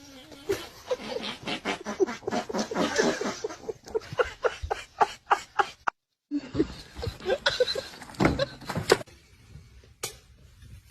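An animal calling in quick, short, repeated cries, broken off suddenly about six seconds in, then calling again for a few more seconds.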